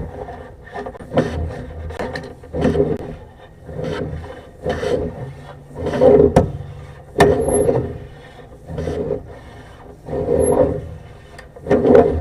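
Sewer camera push cable being fed by hand into a drain cleanout, with a rubbing, scraping stroke about once a second as the cable and camera head slide along the pipe. A few sharp clicks sit among the strokes.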